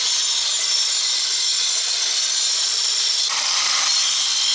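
Angle grinder cutting away excess brick, a loud, steady high-pitched grinding noise that grows fuller about three seconds in as the disc bites deeper.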